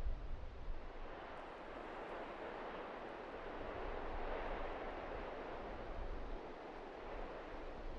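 Blizzard wind gusting, a rushing noise that swells about four seconds in and then eases, over a low rumble of wind on the microphone.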